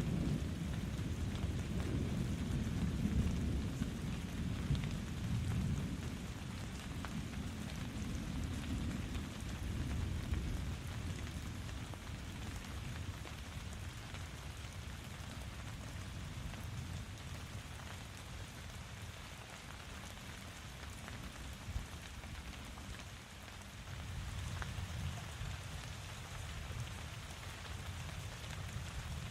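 Steady rainfall hissing, with a low rumble of thunder that is strongest in the first several seconds, dies away, and rolls back in near the end.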